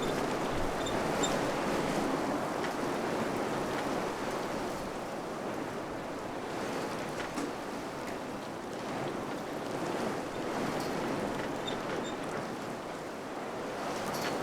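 Wind blowing steadily, swelling and easing slowly, with a few faint small ticks and taps scattered through it.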